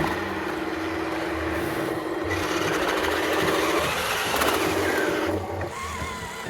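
Small electric motors and plastic gearboxes of a radio-controlled construction model whirring steadily, the whine stopping and restarting near the middle and cutting off near the end.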